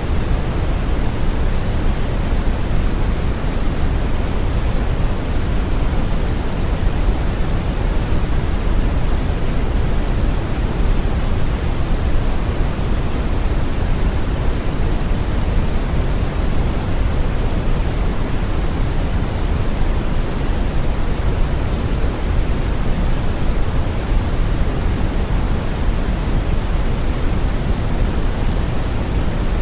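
Steady brown noise: a deep, even rushing hiss, heaviest in the bass, with no changes or events.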